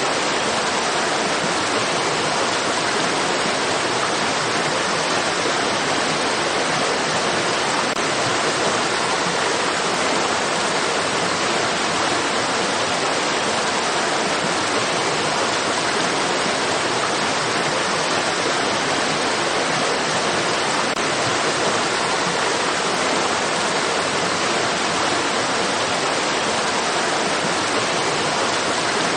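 Flowing stream water rushing in a steady, unbroken hiss.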